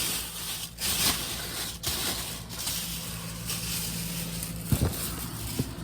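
Items being handled and put back into a car: rustling over a steady hiss and low hum, with two sharp knocks near the end.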